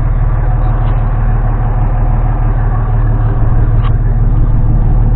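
An engine running steadily at low speed close by, with an even low hum, and a light click about four seconds in.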